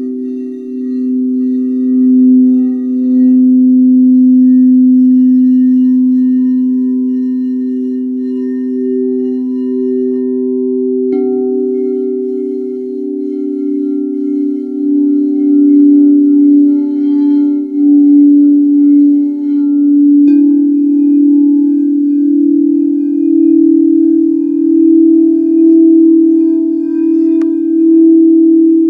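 Singing bowls ringing in long, overlapping tones that waver in a slow pulse. A bowl is struck again about 11 seconds in and again about 20 seconds in, each strike adding new, higher tones over the low hum.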